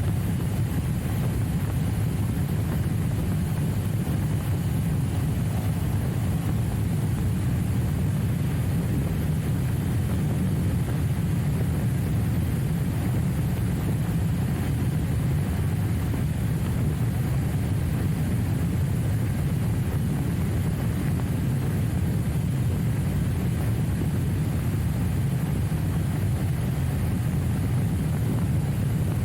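Motorcycle riding noise: a steady, loud low drone with rushing noise over it and no clear rises or falls in pitch.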